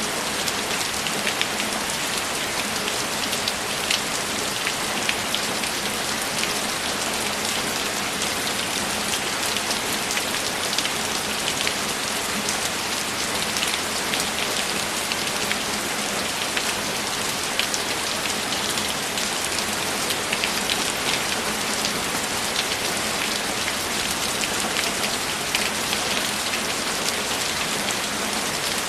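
Steady heavy rain, an even hiss dotted with many small, sharp drop impacts, with no thunder.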